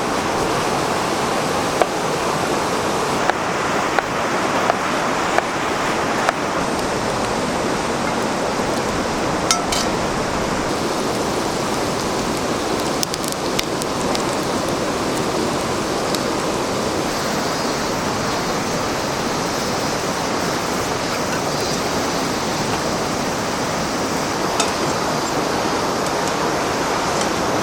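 Steady rushing of river water, with a few light clicks and taps in the first several seconds.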